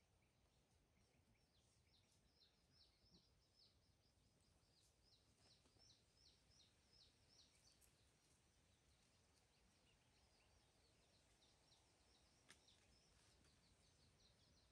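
Near silence with faint, rapid high chirps of a small bird, about three a second, dying away about eleven seconds in. There is a single faint click near the end.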